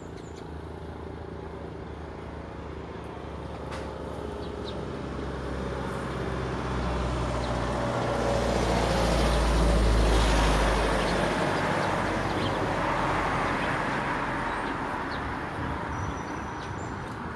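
A motor vehicle passing by: a low engine rumble and road noise that grow louder to a peak about ten seconds in, then fade away.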